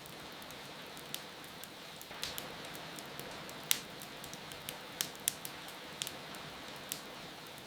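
Wood fire crackling, with sharp irregular pops, the loudest a little past the middle, over a steady hiss of rain.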